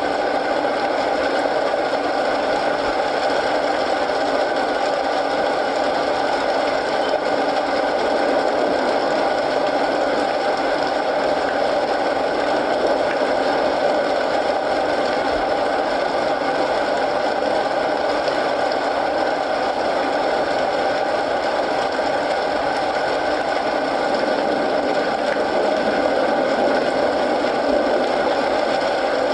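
Steady rain mixed with the crackle of a wood fire, an even hiss that holds unchanged throughout.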